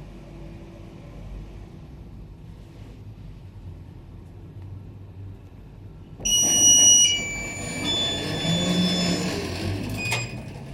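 Passenger lift car travelling with a low, steady hum. About six seconds in, a sudden, much louder mix of steady high electronic tones and clattering noise sets in, as the car arrives and the doors open.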